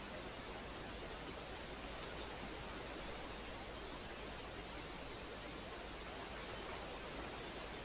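Steady hiss from a trail camera's microphone and electronics, with faint high ticks about twice a second and no distinct sound events.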